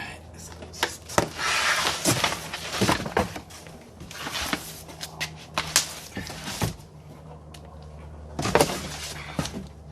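Sink packaging being handled and pulled away: irregular rustling with sharp knocks and clatters, over a steady low hum.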